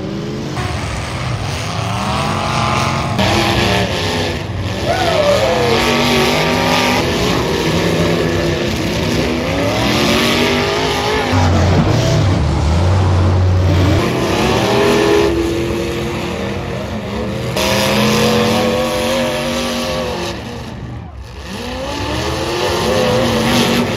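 Several demolition derby cars' engines revving hard, their pitch repeatedly rising and falling.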